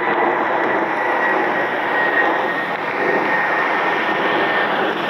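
Jet airliner's engines at high power: a loud, steady rush of noise with a thin high whine that sinks slightly in pitch.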